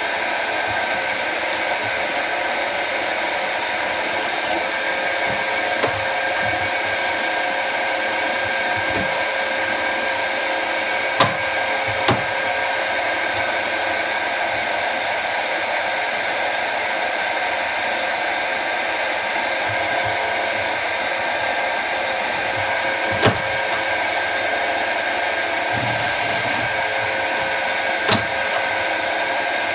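Jet TL-25 lathe running with a steady, even whir from its spindle and drive, with a few sharp clicks at irregular intervals.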